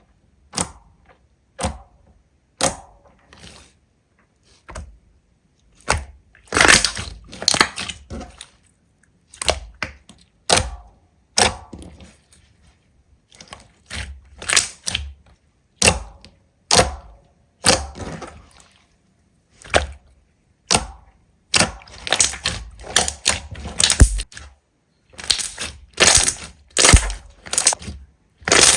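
Slime being handled, making crisp crackling and clicking sounds in irregular clusters, with short pauses between them.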